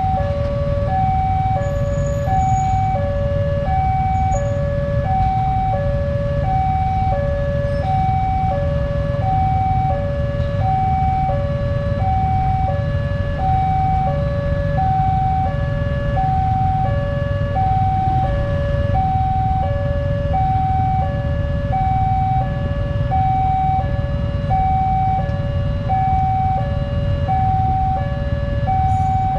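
Electronic level-crossing warning alarm sounding continuously, alternating evenly between a high and a low tone, a sign that a train is approaching and the barriers are closing or closed. A steady low rumble runs underneath.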